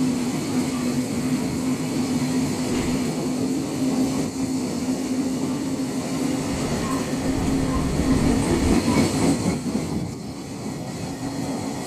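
Freight train passing, its wagons rolling by with a steady running noise and a constant low hum. The noise drops a little near the end.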